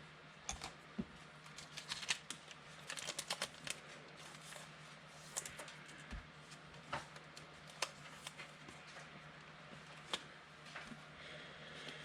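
Faint scattered clicks and rustles of trading cards being handled and sorted.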